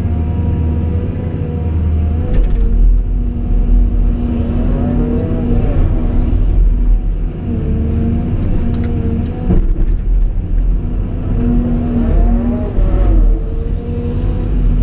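Caterpillar 349E excavator's diesel engine running under a deep rumble, with a steady hydraulic whine that twice rises and falls in pitch as the hydraulics are worked.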